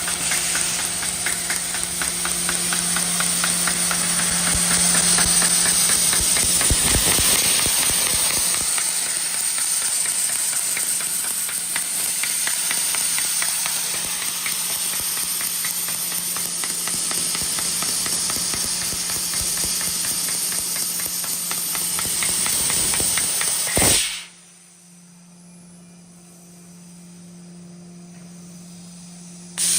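1500 W fiber laser cutting machine cutting sheet metal: a loud, steady hiss of assist gas with rapid fine ticking over a low hum and a high whine. It stops abruptly about 24 seconds in, leaving a quieter hum.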